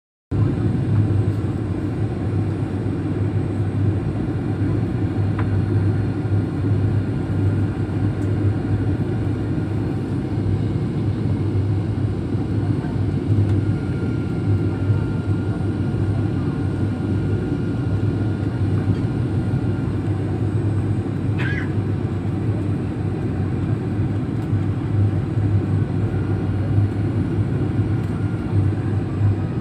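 Airliner cabin noise in flight: a steady, unbroken drone of engines and rushing air with a strong low hum.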